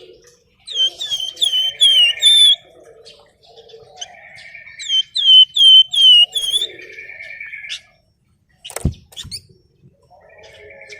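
Flamboyan songbird singing in quick bouts of high, down-slurred chirps, about three a second, with buzzy trilling phrases between the bouts. The song stops briefly, then a sharp click comes near 9 s in.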